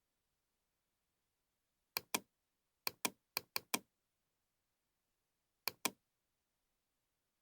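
Computer mouse clicking in bursts over otherwise dead silence. There is a quick double click about two seconds in, then five rapid clicks a little after three seconds, and another double click near six seconds.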